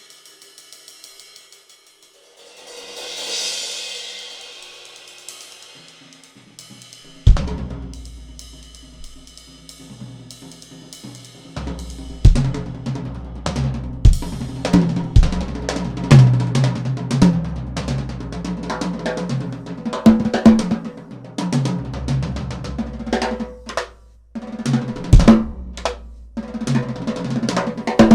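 Solo on a Western drum kit. It opens with soft cymbal and hi-hat shimmer and a swelling cymbal roll, then a big bass drum and cymbal hit comes about seven seconds in. From about twelve seconds a busy groove runs across snare, toms, bass drum and hi-hat.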